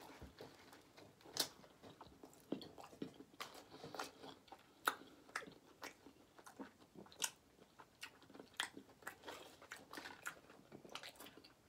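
Close-miked mouth sounds of eating a queso-dipped burrito: chewing with sharp wet smacks and crunches at irregular intervals.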